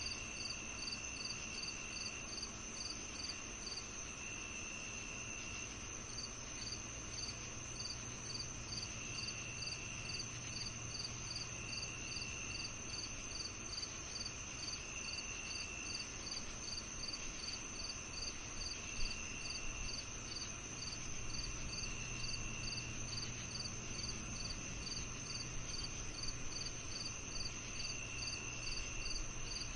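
Summer-evening chorus of crickets and other insects: a steady high trill, a regular chirp repeating a couple of times a second, and a lower trill that comes and goes every couple of seconds.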